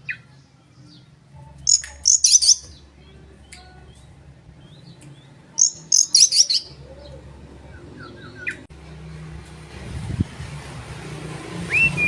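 Oriental magpie-robin (kacer) singing: two short bursts of rapid, high warbling notes, about two seconds and six seconds in, over a low steady hum. Background noise grows louder over the last few seconds.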